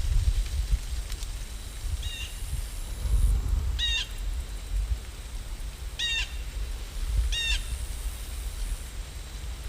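A bird calling four times in short calls about one and a half to two seconds apart, over a low steady rumble.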